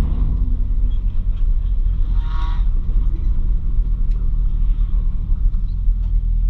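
A car engine running steadily as the car is driven, a low, even drone, with a brief higher-pitched sound about two seconds in.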